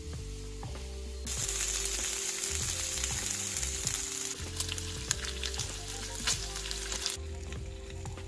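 Food sizzling in a frying pan, a dense hiss with crackles and pops that comes in suddenly about a second in and cuts off about seven seconds in. Soft background music with low notes plays underneath throughout.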